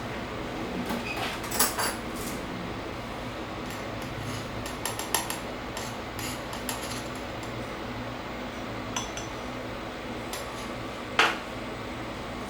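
Cafe crockery and cutlery clinking and knocking in scattered bursts, the loudest clinks about two seconds in, about five seconds in and near the end, over a steady low hum.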